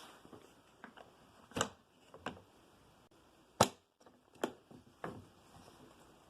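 Hard plastic watch case (Invicta dive box) being opened by hand: about five sharp clicks and knocks, its latches and lid snapping, the loudest about halfway through.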